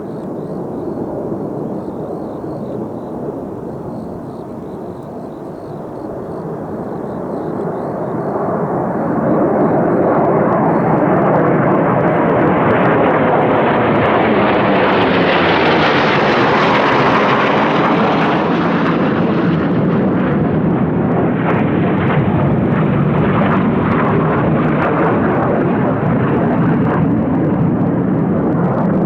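Kawasaki T-4 jet aircraft flying past. The jet roar builds over about ten seconds and is brightest about two-thirds of the way through as they go by, then eases into a lower, crackling rumble as they draw away.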